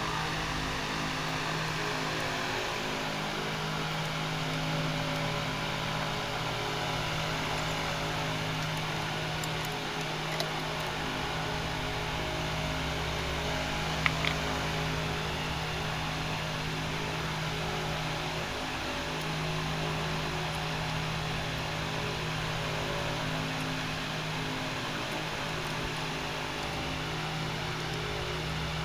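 A steady whirring hum and hiss from a fan-type motor running without change. Two small clicks come through, about ten seconds in and again about fourteen seconds in.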